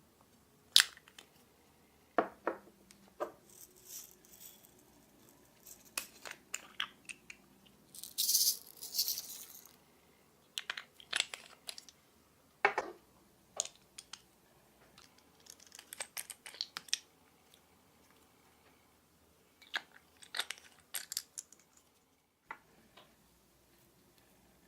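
Glossy slime being handled and mixed by hand: scattered sticky clicks, pops and short crackles, with a longer crackly hiss about eight seconds in.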